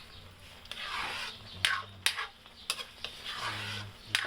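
A spatula stirring and scraping sautéed burong kanin (fermented rice) in a pan: two scraping swishes with a few sharp clicks of the utensil against the pan.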